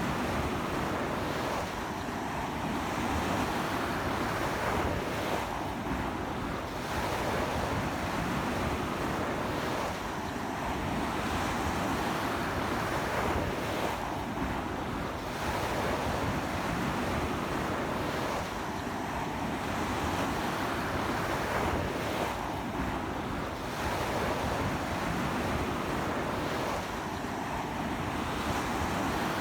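Ocean surf breaking on a beach, a continuous wash that swells with each wave about every four seconds.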